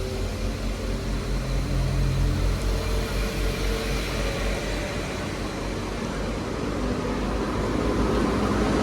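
Two coupled Class 197 diesel multiple units pulling out of the station, their diesel engines running under power with a steady low drone that slowly grows louder.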